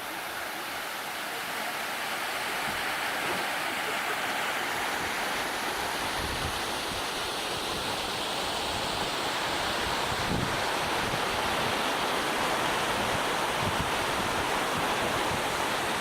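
Waterfall rushing steadily, an even roar of falling water that grows slightly louder over the stretch, with a few brief low rumbles.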